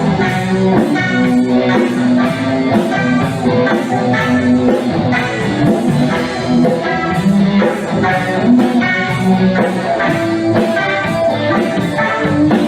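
Instrumental break of a rock song played by a band: guitar over a steady beat, with no vocals.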